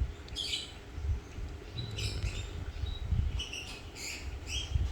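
A bird chirping in short high chirps, quickening to two or three a second in the second half, over a low rumble.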